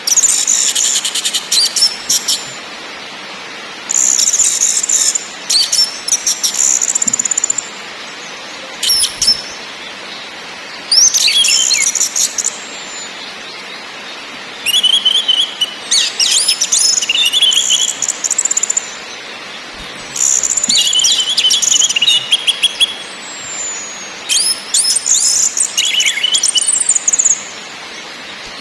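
Orange-headed thrush singing in about ten bursts of rapid, high, chattering notes and whistled glides, each a second or two long with short pauses between, over a steady background hiss.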